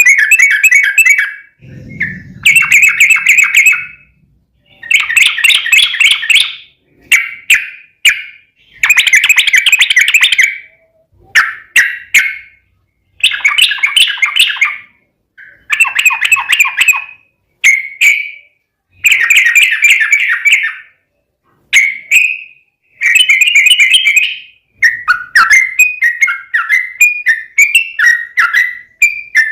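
Yellow-vented bulbul (trucukan) singing its long, rapid 'ropel' song in repeated bubbling, chattering phrases a second or two long with short pauses between them, the notes coming quicker and more broken near the end. A brief low rumble comes about two seconds in.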